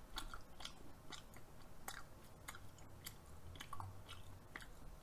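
A mouthful of yukhoe (Korean raw beef tartare) being chewed close to the microphone: soft, wet mouth smacks and clicks at an irregular pace.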